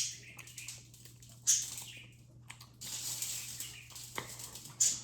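Plastic packaging crinkling and rustling in short, uneven bursts as it is handled, with a sharp click about four seconds in.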